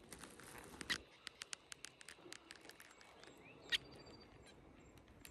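Small bird foraging in the grass: a quick run of light ticks and rustles as it pecks, with a sharper tick near 1 s and another near 4 s. Faint, thin, high chirps are heard in the second half.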